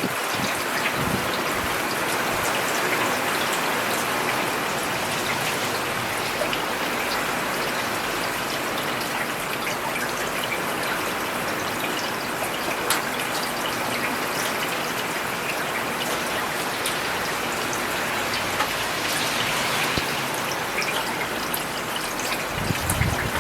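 Steady rain falling on a paved road, an even hiss of rainfall with scattered individual drop ticks. A low rumble begins just before the end.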